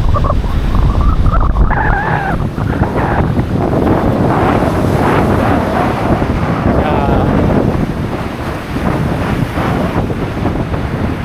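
Wind buffeting the microphone over the rush of breaking surf.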